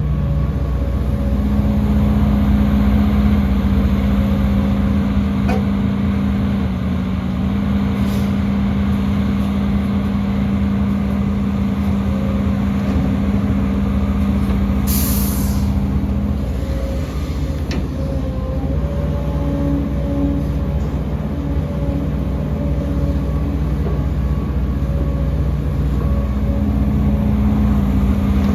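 Heavy diesel earthmoving machinery running steadily, its engine drone shifting in pitch a few times as the load changes, with one short burst of hissing air about halfway through.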